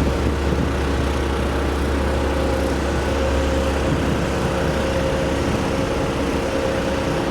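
A steady engine running, a low hum with a few held higher tones and no change in speed.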